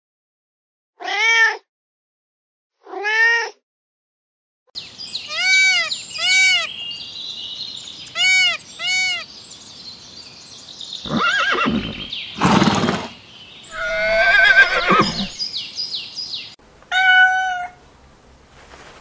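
Two short kitten meows in the first few seconds. After them comes a stretch of other animal calls: four short, evenly pitched calls, then harsher, noisier cries over steady outdoor background sound. Near the end there is one more cat meow.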